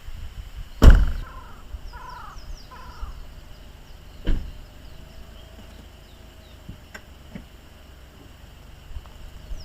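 A sharp, loud thump about a second in and a softer knock a few seconds later, with small birds chirping in short falling notes and a faint steady insect drone behind.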